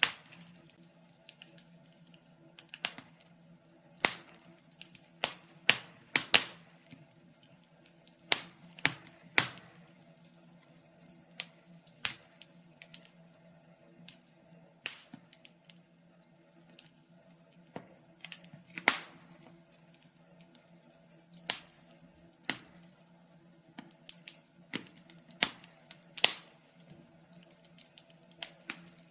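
Fire in a fireplace crackling, with irregular sharp pops every second or so and fainter ticks between them, over a faint steady low hum.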